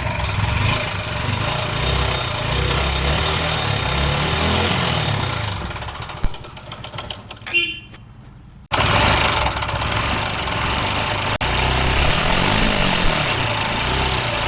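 TVS Apache RTR 160 4V single-cylinder engine running with a heavy clattering, rattling noise from the top end, the sign of a worn-through inlet rocker arm and pin rather than a timing-chain fault. The running drops away to a few scattered knocks a little past the middle, then comes back loud about nine seconds in.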